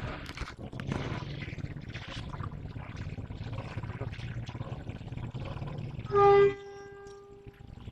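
Diesel locomotive idling with a steady low rumble. About six seconds in comes a short, loud single-note horn blast that trails off faintly for about a second.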